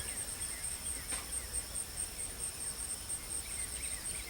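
Insects trilling steadily: a high, evenly pulsing drone with a fainter steady tone beneath it.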